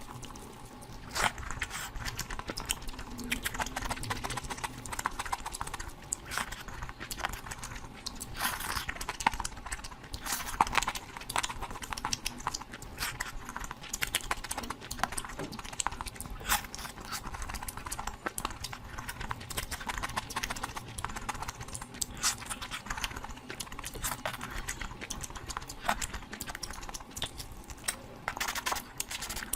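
Close-miked eating of curry: chewing with a dense, irregular run of small wet clicks and smacks.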